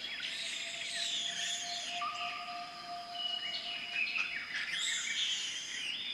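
Several birds singing, with rapid high chirps and trills overlapping and a few long, steady whistled notes.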